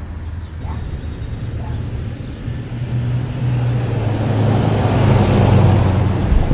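A motor vehicle passing close by: a steady engine hum that grows louder toward a peak about five seconds in, then cuts off suddenly at the end.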